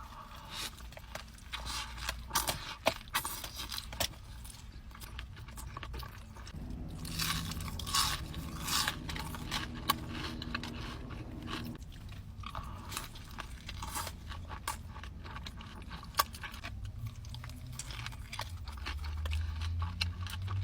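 A person biting and chewing crunchy food close to the microphone, with repeated crisp crunches and mouth sounds.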